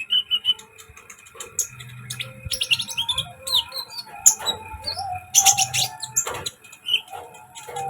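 Small songbirds, a konin lure recording, giving a busy run of quick high chirps and short sweeping calls, with a low hum beneath.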